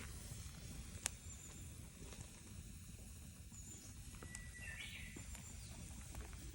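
Faint outdoor ambience: a steady low rumble, a sharp crack about a second in with a few fainter ticks, and a short bird call a little before five seconds.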